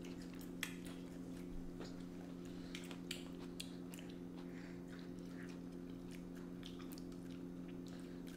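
Quiet eating sounds: chewing and a scattering of small, sharp clicks, over a steady low hum.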